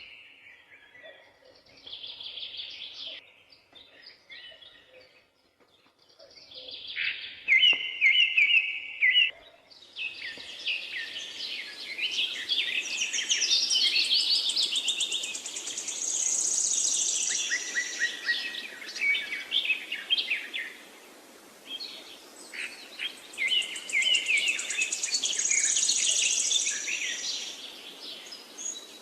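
Songbirds singing: scattered chirping phrases for the first ten seconds, then from about ten seconds in a dense chorus of several birds' overlapping songs and trills over a steady background hiss.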